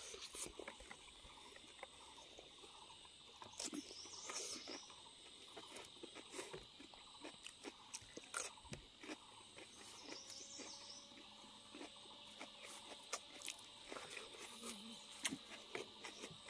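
Quiet eating sounds close to a lapel microphone: chewing and small mouth smacks and clicks as rice and pork are eaten by hand, with now and then fingers scraping on a plate. A faint steady high-pitched tone runs underneath.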